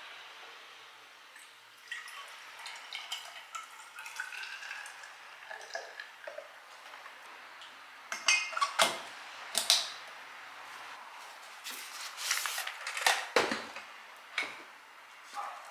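Dishes and cutlery clinking and knocking, with a little water running or dripping. The loudest clatters come in two clusters, one about eight seconds in and one about twelve seconds in.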